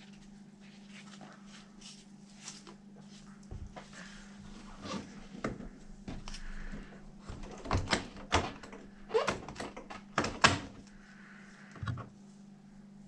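Knocks and clatter from handling a 1/5 scale RC truck wheel fitted with a rubber paddle tire. It is a loose series of sharp knocks that get busier in the second half, with the loudest about ten and a half seconds in, over a steady low hum.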